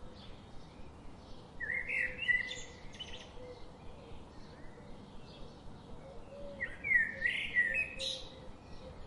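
Songbirds singing: one bird gives two loud, quickly warbling song phrases of about a second and a half each, the first about a second and a half in and the second about five seconds later, over fainter chirps from other birds.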